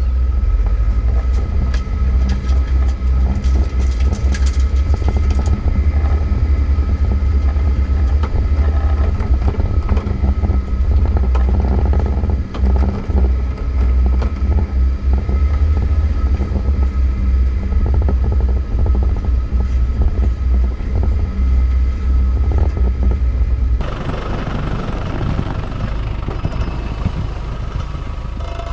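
Land Rover Defender 90 driving off-road, its engine and drivetrain running with a steady low rumble and some clatter. About 24 seconds in the sound changes abruptly, the low rumble dropping away and more hiss coming through.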